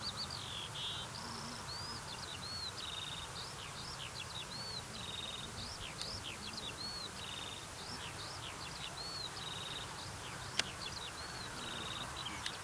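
Birds singing: a continuous, varied run of short chirps, arching whistles and quick trills, over a low steady background rumble. A single sharp click about ten and a half seconds in.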